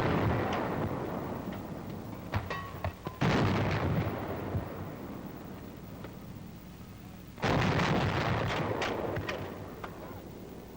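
90 mm antiaircraft guns firing: three heavy shots, about four seconds apart, each with a long rumbling echo that dies away slowly.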